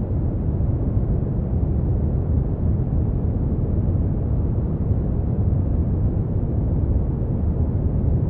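Steady brown noise: a constant deep rushing hiss, strongest in the bass and rolled off in the treble, with no changes or events.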